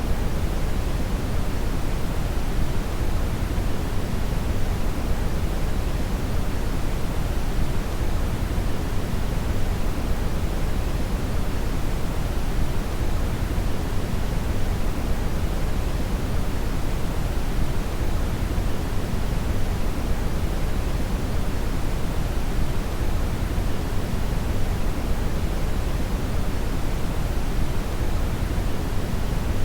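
Steady synthetic brown noise (red noise): an even, deep rushing hiss with most of its weight in the bass, unchanging throughout.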